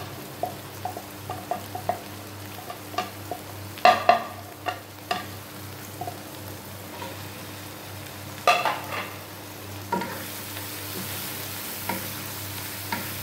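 Wooden spatula scraping green chili paste off a plate and stirring it into onion-tomato masala frying in oil in a nonstick wok, with scattered knocks and scrapes over a steady sizzle. A low steady hum sits underneath.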